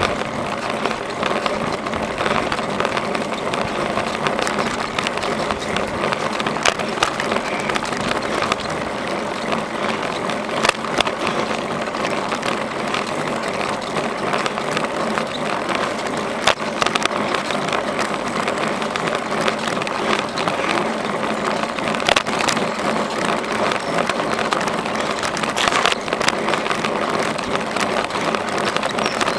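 Bicycle rolling along a trail: steady tyre and riding noise with frequent sharp clicks and rattles from the bike over the rough surface.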